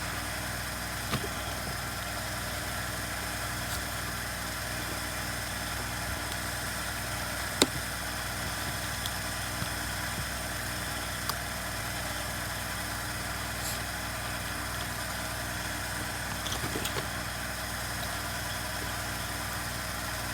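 Steady machine hum in the background with a few light clicks and one sharper tap about seven and a half seconds in, as a screwdriver pries at a chainsaw's rubber handle mounts.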